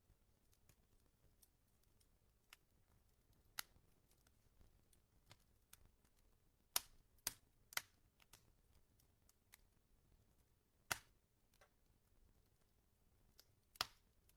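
Wood fire crackling: sparse, sharp pops and snaps over a faint background, the loudest three coming close together about seven seconds in, with single louder pops near eleven seconds and near the end.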